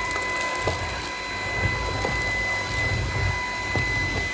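Stick vacuum running on its high power setting, a steady high motor whine over a low rumble as it sweeps dirt and small pebbles off carpet, with a few sharp ticks.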